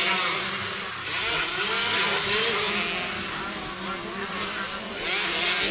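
125cc motocross motorcycles racing, several engines revving up and down over one another as the bikes pass.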